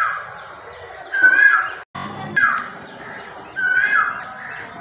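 A bird calling over and over, one pitched call about every second and a half, each held briefly and then sliding down in pitch. The sound cuts out completely for a moment about two seconds in.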